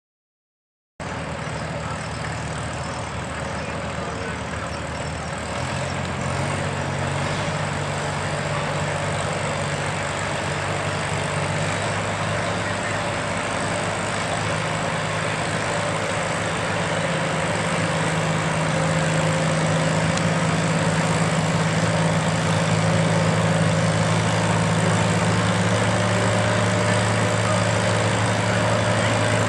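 Antique farm tractor engine running steadily. It cuts in suddenly about a second in and grows louder about six seconds in and again around eighteen seconds.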